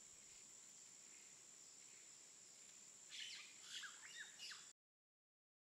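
Faint outdoor ambience: a steady high-pitched tone over soft hiss, with a quick run of bird chirps about three seconds in. All sound cuts off abruptly near the end.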